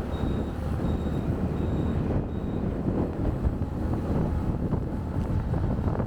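Steady engine and road rumble of a motorcycle riding in city traffic. A high electronic beep repeats about once every three-quarters of a second, like a reversing or indicator beeper, and stops about two and a half seconds in.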